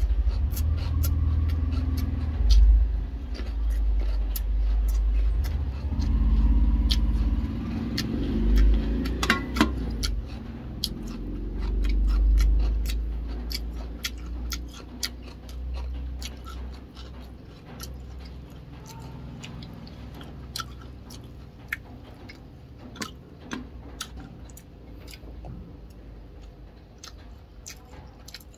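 Close-up eating sounds: a man chewing rice and fish, with many small sharp clicks from his mouth and the chopsticks. Under it runs a low rumble that swells and fades several times in the first half, then dies down.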